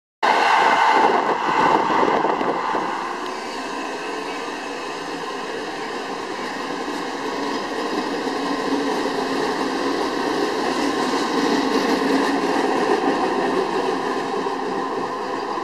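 Trenitalia regional electric multiple unit running past on the station track: a steady rumble of wheels on the rails with a few steady high tones over it, loudest in the first couple of seconds.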